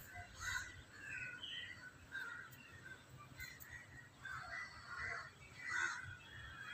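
Faint bird calls: a string of short calls at irregular intervals.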